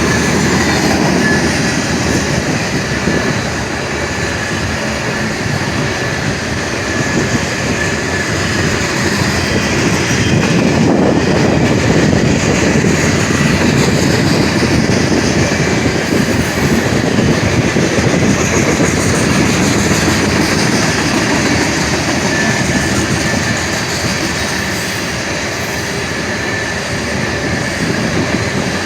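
Freight train's cars rolling past close by: a steady rumble and clatter of steel wheels on the rail joints, with a faint high wheel squeal now and then.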